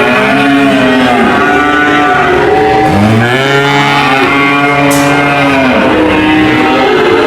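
Several cows mooing in long, overlapping calls. A deeper moo begins about three seconds in, rising and then holding for nearly three seconds.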